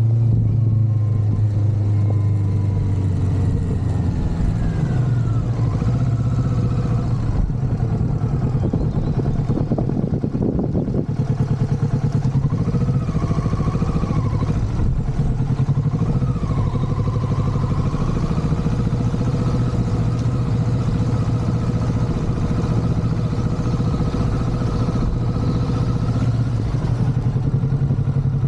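Motorcycle engine running under way, its note easing down over the first few seconds and then holding fairly steady.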